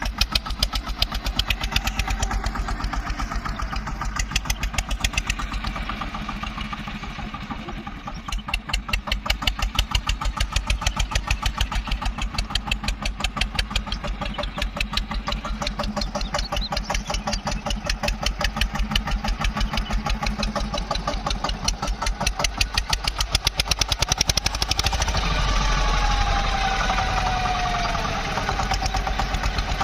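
Tractor diesel engine running with a steady, even chug that swells and eases as it works a front loader. Near the end a faint whine falls in pitch over a couple of seconds.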